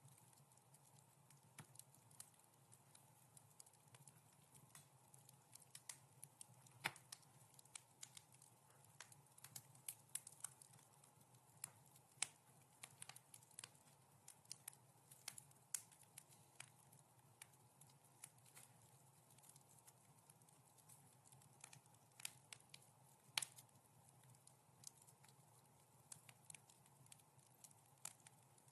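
Wood fire crackling softly in a fireplace: irregular sharp pops and snaps, a couple of them louder, over a faint steady low hum.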